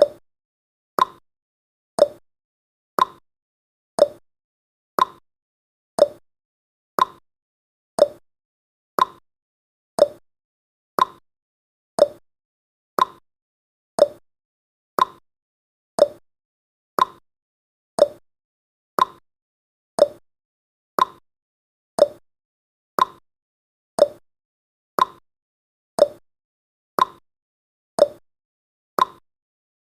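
Clock-tick sound effect of a countdown timer: one short, sharp tick every second, evenly spaced.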